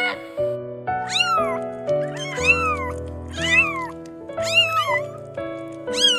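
Cat meowing about five times, each meow rising then falling in pitch, over background music.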